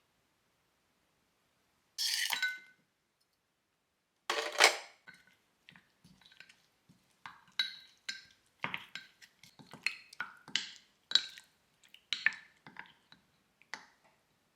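Cutlery clinking against ceramic dishes. There is a short clatter about two seconds in and a louder one about halfway through the first third, then a run of light taps and clinks, roughly two a second, each with a brief ring.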